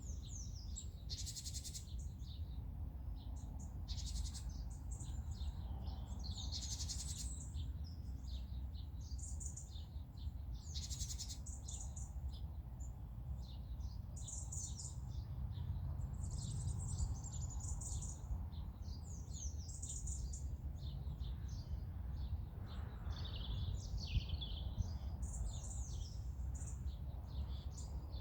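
Several songbirds singing and chirping, short overlapping high phrases and trills one after another, over a steady low background rumble.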